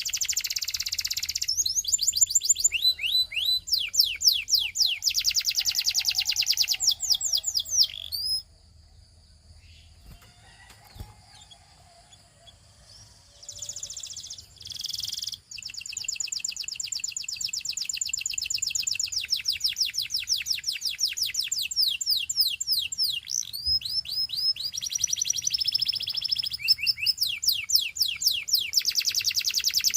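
Belgian canary singing long trills of rapidly repeated sweeping high notes. The song breaks off about eight seconds in, gives a couple of short snatches after a few seconds of quiet, and runs on in long rolling trills.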